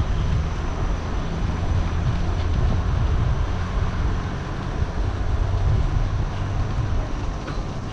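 Steady low rumble of riding noise from a bike moving along a street, with no speech over it.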